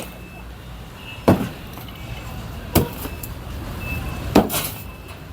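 Three loud knocks, evenly spaced about a second and a half apart, over a low background noise.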